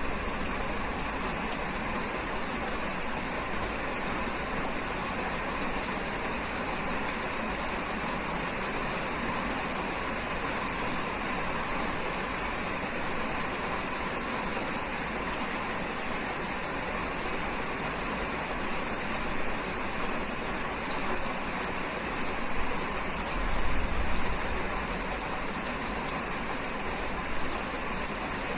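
Rain falling steadily, an even hiss throughout. A brief low rumble swells up about three-quarters of the way through.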